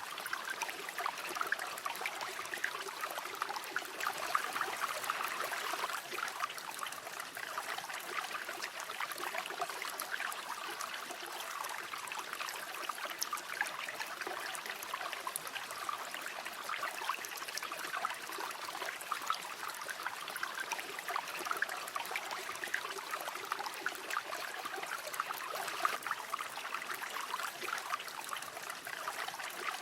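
A shallow river flowing steadily, water trickling and babbling over stones.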